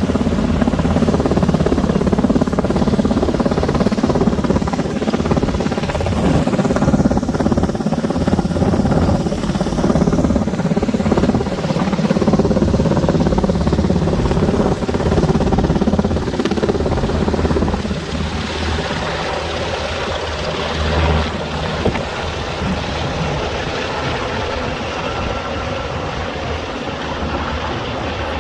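Civilian Black Hawk helicopter running, a loud steady rotor and turbine noise with a deep rumble, getting somewhat quieter about two-thirds of the way through.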